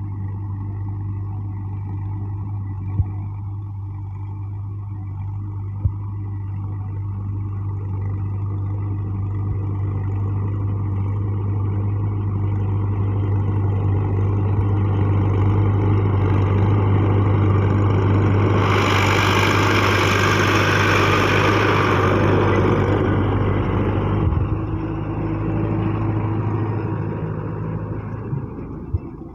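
Standard 460 tractor engine running with a steady low drone, growing louder toward the middle. A few seconds of loud hissing noise sit over it past the middle, and it eases off near the end, with two sharp clicks early on.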